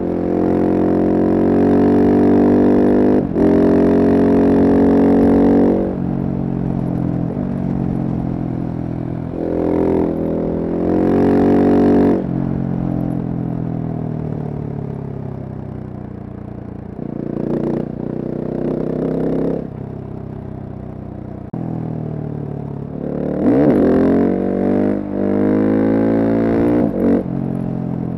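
Single-cylinder Husqvarna supermoto engine pulling hard with a brief break at a gear change about three seconds in. It then eases off and comes back in several shorter bursts of throttle, the revs rising and falling.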